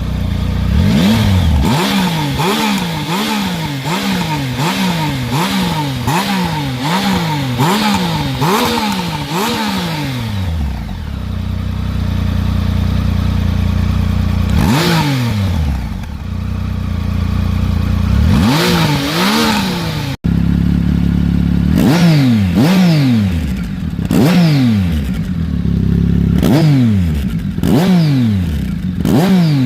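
Triumph Tiger Sport 1050's inline three-cylinder engine through an SC-Project slip-on muffler, revved in quick repeated blips for about ten seconds. It then idles steadily between single revs, and near the end it is blipped again about once a second.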